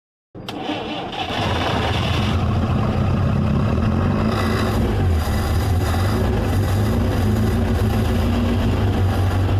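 Car engine starting up suddenly and then running steadily with a deep, even hum.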